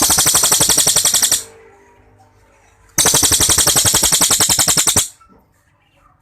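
Cililin songbird delivering two long, loud, rapid rattling trills, the first right at the start and the second about three seconds in and lasting about two seconds: the long 'shots' prized in this bird's song.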